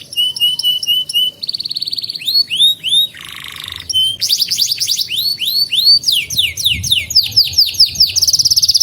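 Canary singing a varied song in quick tours of repeated notes: rows of short rising chirps, rapid trills, a brief buzzy passage, and a loud fast roll near the end.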